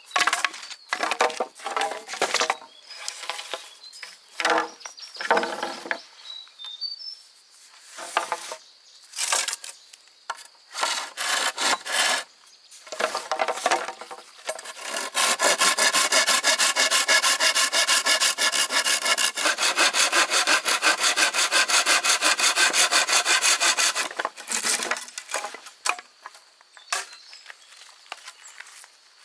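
Wood being sawn by hand, with irregular scraping strokes at first. About halfway in comes a run of roughly nine seconds of fast, even back-and-forth strokes, the loudest part, before it breaks off into scattered strokes again.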